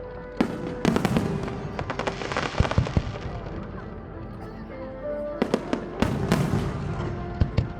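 Fireworks display: rapid volleys of shell bursts with crackling, in two dense clusters, the first from about half a second in to about three seconds, the second from about five and a half seconds to near the end. Music with held notes plays underneath.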